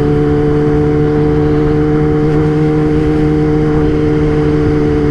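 Kawasaki ZX-10R inline-four engine running at steady revs while the motorcycle rides along, its note holding one pitch throughout.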